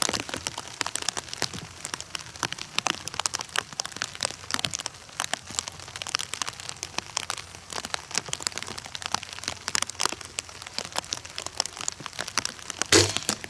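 Heavy rain pattering close to the microphone, a dense crackle of drops, then near the end a single loud snap of a crossbow firing.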